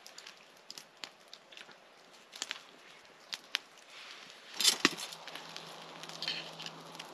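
Campfire crackling with scattered sharp pops, then a louder burst of rustling with a sharp knock a little past the middle.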